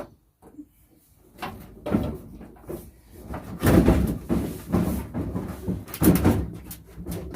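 A storage locker being shifted and manoeuvred into place: a string of irregular knocks, bumps and rattles, with the loudest clatters about two seconds in, around the middle and again near the end.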